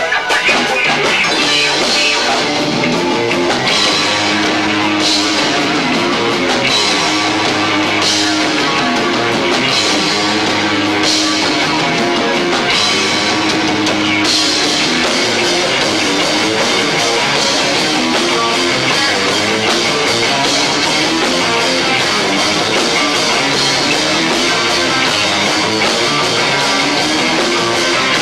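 Loud, frantic rock band playing live with two drum kits, recorded low-fi on a 1990s camcorder's built-in microphone. Cymbal crashes land about every second and a half through the first half, then the cymbals wash on steadily.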